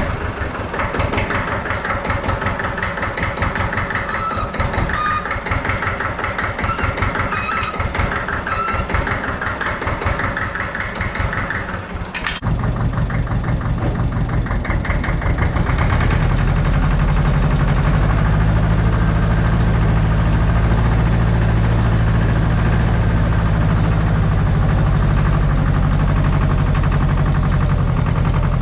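Allis-Chalmers 5020 compact tractor's diesel engine running just after starting, with a regular low pulse and a few light clicks. About twelve seconds in, the engine note changes and it runs louder and steadier.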